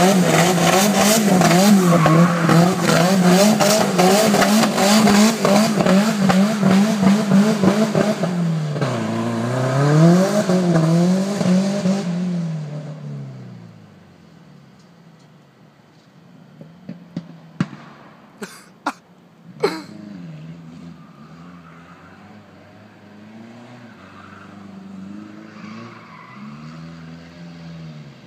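Nissan S14's turbocharged engine, running with an open downpipe and no exhaust, revved hard up and down with tyres screeching as the car drifts. About twelve seconds in it fades as the car moves off. A few sharp cracks follow, and then the engine is heard further off, still rising and falling.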